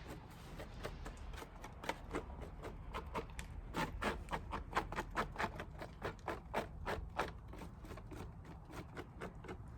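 Bee brush sweeping dead bees off a brood frame: a quick run of short brushing strokes, several a second, thickest in the middle of the stretch.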